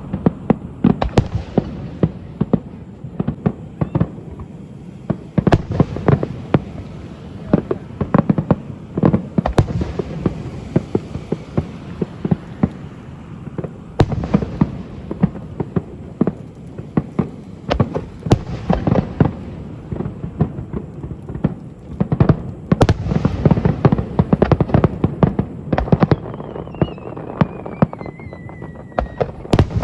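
Aerial fireworks bursting in quick succession: sharp bangs over continuous crackling and rumble, with a whistle falling in pitch near the end.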